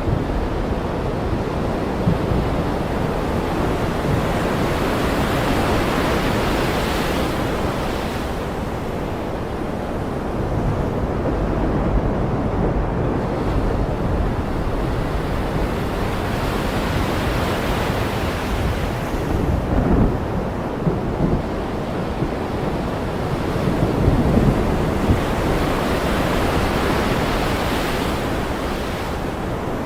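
Ocean surf, with waves washing in and swelling up about every ten seconds over a constant low rush. Low thunder rumbles come twice in the second half.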